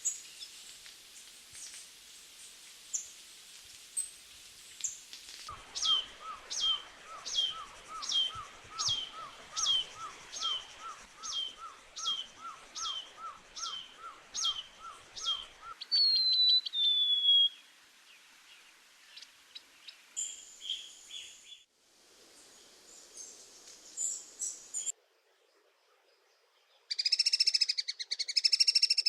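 Tanager calls from several recordings in turn. First faint, thin, high calls. Then a long run of short, sharp notes a little under two a second, a falling whistle, scattered high chips, and near the end a loud, rapid, buzzy trill.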